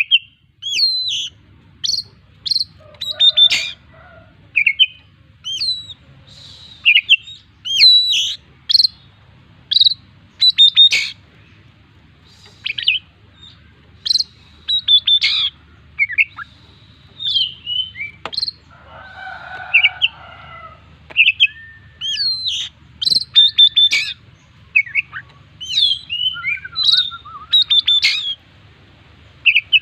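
Oriental magpie-robin (kacer) in full song: a continuous stream of short, loud whistled notes and sharp chirps, many sliding up or down in pitch, mixed with mimicked phrases of other birds. A harsher, scratchy phrase comes about two-thirds of the way through.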